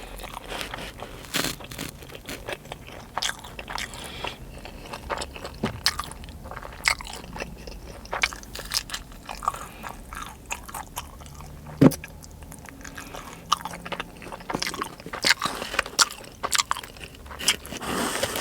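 Close-up eating sounds of a person chewing sushi rolls: irregular crunchy bites and wet mouth clicks.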